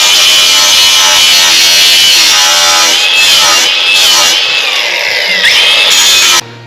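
Angle grinder with a flap disc grinding a welded seam on sheet-metal body panels, its high whine wavering as it is worked over the metal and dipping under load a little past five seconds in. It cuts off suddenly near the end.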